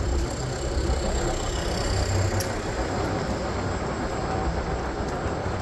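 PATH train running, a steady rumble.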